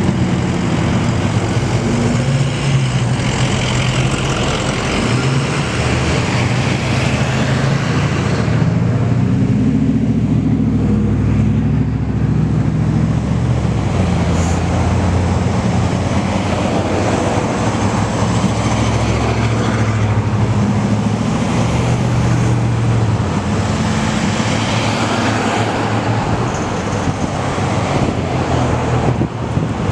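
Heavy diesel trucks running in a convoy, with engine notes that shift in pitch as the trucks move along over steady road noise.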